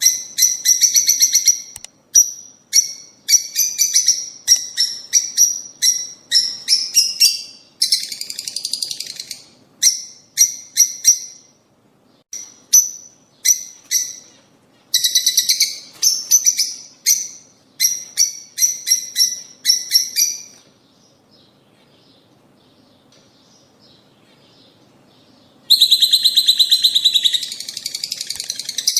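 Lovebirds chirping and chattering in rapid runs of short, sharp, high-pitched calls. The calls drop away for a few seconds a little past the middle, then a loud, dense burst of chattering starts again near the end.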